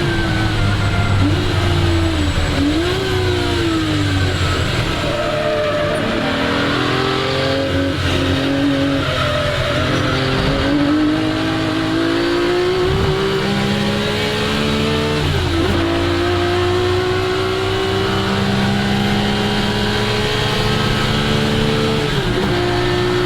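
1961 Ferrari 250 GT SWB's Colombo V12 engine at racing speed, its pitch falling and rising through corners, then climbing under acceleration with sudden drops at each upshift, twice in the last third.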